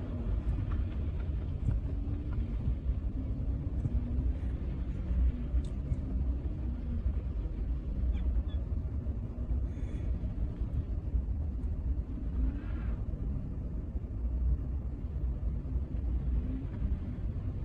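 Steady low rumble of a car driving, with engine and road noise picked up by a dashcam, and a few faint ticks.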